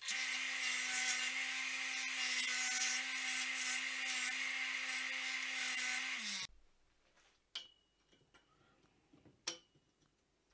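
Electric power tool motor running steadily, with irregular bursts of high hiss over it. About six and a half seconds in it is switched off and quickly winds down. A few light metal clinks follow.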